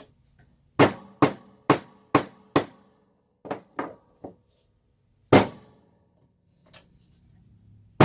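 Hammer blows flattening a small bent metal washer: five quick strikes about two a second, then a few lighter taps and one more hard blow, each with a short metallic ring.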